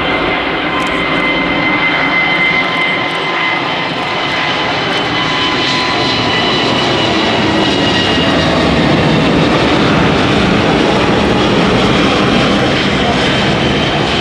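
Lufthansa Airbus A380's four Rolls-Royce Trent 900 jet engines passing by: a loud, steady rushing noise with high whining tones, some sliding slightly lower, growing a little louder toward about two thirds of the way through.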